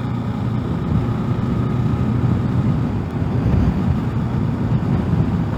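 Steady low rumble of a motorcycle on the move, engine and road and wind noise running evenly.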